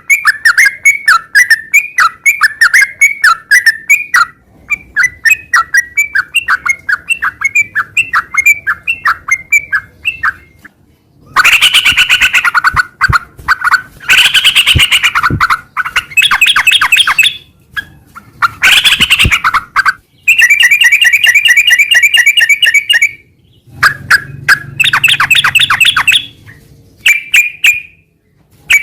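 Yellow-vented bulbul (trucukan) singing without a break. It opens with a fast run of short repeated chirps, about three a second. About eleven seconds in it moves to louder, rushed chattering phrases with short pauses, including a steady rapid trill.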